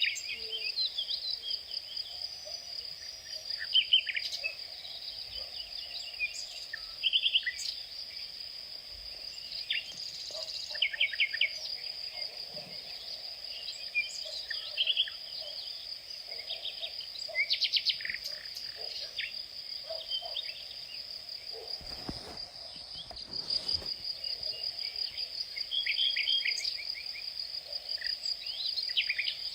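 Outdoor insect chorus: a steady, high, finely pulsing trill of crickets runs throughout. Short bird chirps come in quick runs of repeated notes over it. A brief low rumble sounds about 22 seconds in.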